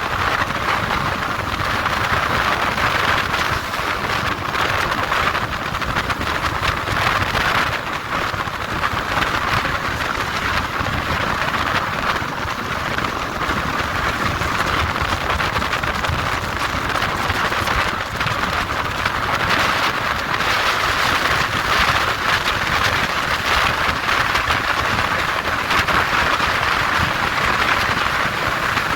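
Steady rushing noise of a motorcycle ride at speed, with wind and road noise on the camera microphone and no distinct engine note or events standing out.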